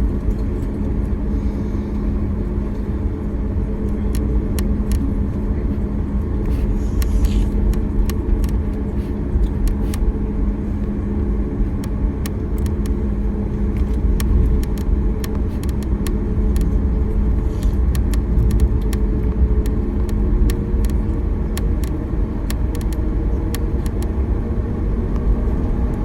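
Airliner cabin noise: the jet engines' steady hum over a low rumble, with many scattered clicks and rattles.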